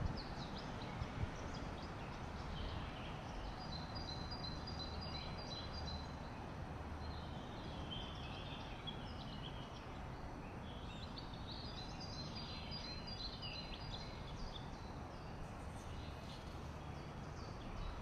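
Small birds calling in short, high repeated notes, in two spells about four seconds and twelve seconds in, over a steady rushing of flowing water.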